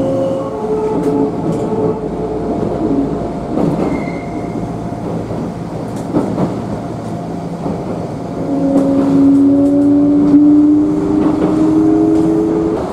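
Kintetsu "Blue Symphony" (Ao no Kōkyōkyoku) sightseeing limited express train running, its wheels clicking over rail joints. About two-thirds of the way in, a whine that rises slightly in pitch comes in and becomes the loudest sound.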